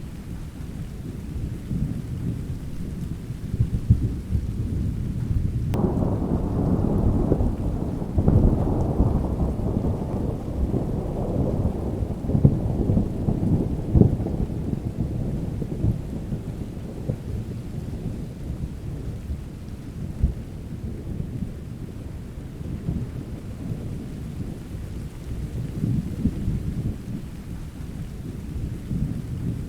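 Thunderstorm: steady rain under low rolling thunder. About six seconds in, a louder thunderclap breaks and rumbles away over roughly ten seconds.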